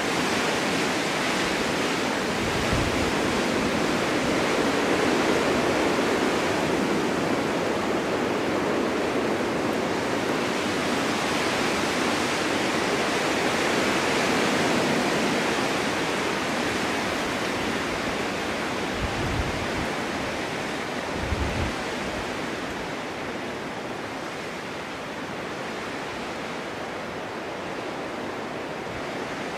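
Snowstorm wind blowing steadily through a forest, a dense rushing hiss that slowly swells and eases. A few brief low thuds of gusts break in about three seconds in and again around twenty seconds.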